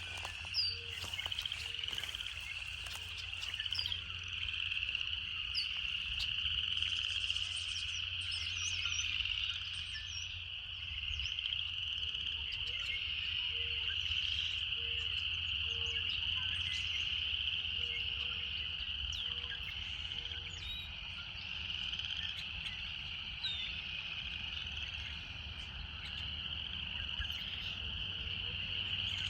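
Cicadas singing in a steady, continuous high drone. Under it, a short low call repeats about once a second for much of the time, and a few brief high chirps sound in the first few seconds.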